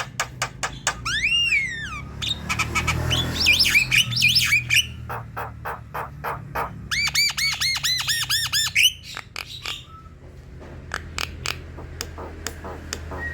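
Javan myna in full song: a fast run of sharp clicks and harsh chatter, broken by a rising-and-falling whistle about a second in and a quick string of about ten repeated arched whistled notes around the middle.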